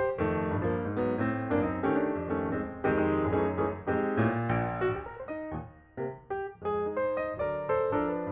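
Background piano music: a melody of quick notes over a bass line, dipping briefly about six seconds in.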